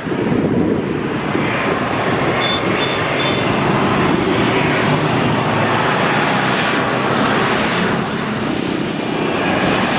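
Jet airliner's engines running with a loud, steady rushing noise, as on a takeoff run.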